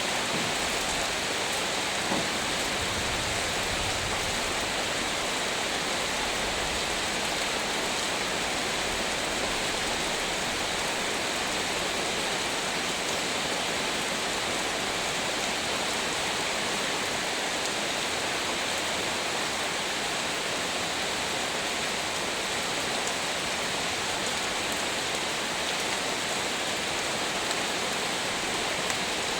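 Heavy rain falling in a steady, even hiss. A low rumble sits underneath for a few seconds starting about two seconds in.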